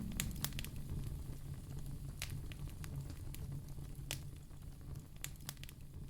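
Wood fire burning in a fireplace: sharp, irregular crackles and pops of burning logs over a low, steady rumble, easing slightly quieter toward the end.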